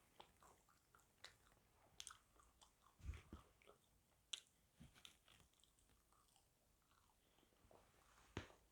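A person chewing and biting fried fast food close to the microphone: faint, irregular crunches and mouth clicks.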